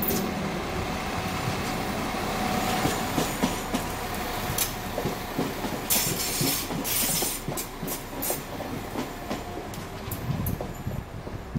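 A London Overground Class 172 diesel multiple unit running past on the adjacent track with a continuous rumble. Wheels clatter over the rail joints, with a cluster of sharp clicks in the middle, and the sound eases as the train moves away.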